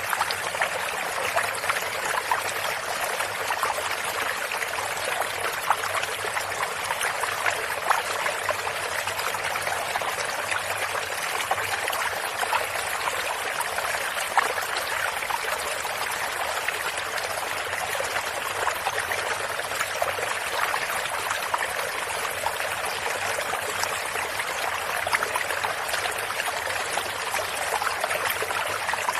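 A stream of running water, steady, with a fine crackle of small splashes.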